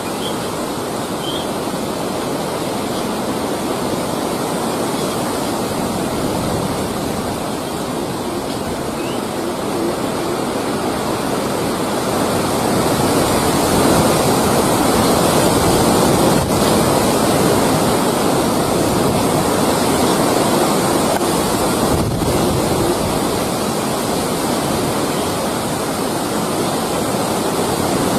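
Steady rushing noise, a little louder from about halfway through.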